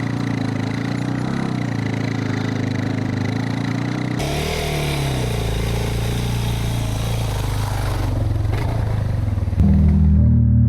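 Motorcycle engine running steadily. After a cut about four seconds in, the engine revs up briefly and eases off. Music comes in near the end.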